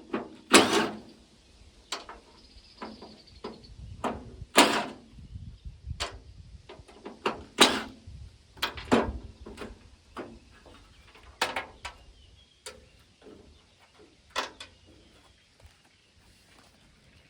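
Hand tools knocking and clanking against a rusted steel pickup tailgate as its parts are worked loose: irregular sharp metallic strikes, a few loud ones among many lighter knocks, growing fainter in the last few seconds.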